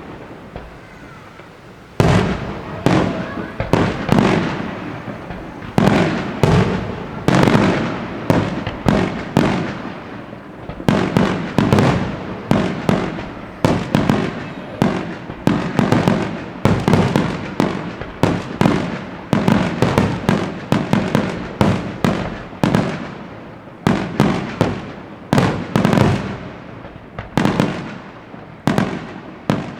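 Fireworks display with a dense run of bangs, several a second, each trailing off, after a brief lull at the start.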